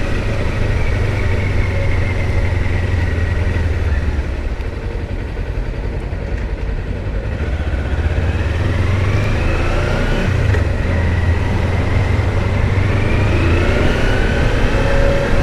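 Kawasaki Versys-X 300's parallel-twin engine running at low speed in town traffic. It eases off early on, then rises in pitch twice in the second half as the bike accelerates.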